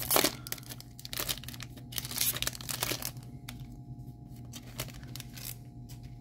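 A foil Pokémon TCG booster pack being torn open and its wrapper crinkled, loudest in the first three seconds, then fading to faint handling.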